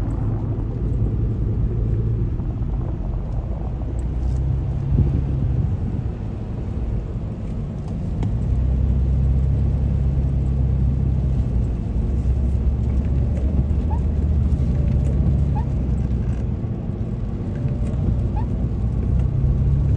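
Car engine and road noise heard from inside the cabin while driving, a steady low hum whose pitch shifts a few times as the engine load changes.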